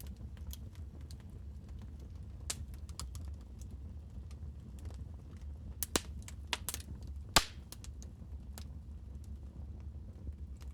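Wood fire crackling in a fireplace: scattered sharp pops and snaps over a low steady rumble, with a burst of louder pops about six to seven seconds in.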